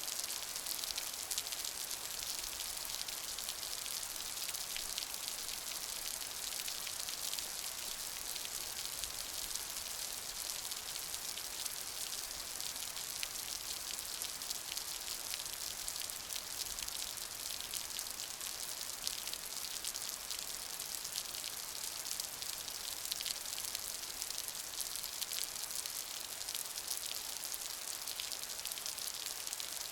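Steady rain falling, a dense patter of many fine drop ticks over an even hiss.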